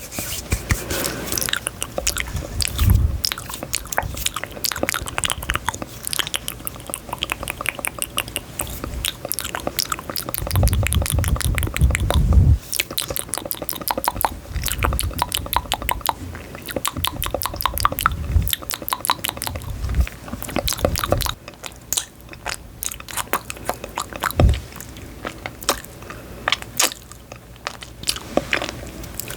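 Close-miked crunching and chewing of something crisp: a dense run of sharp crackles, with heavier low bites now and then.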